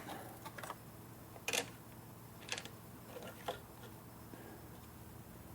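A few light, sharp clicks and knocks, strongest about a second and a half in, as the PCV valve (oil separator) is worked loose and popped off an Audi 2.0 TFSI engine.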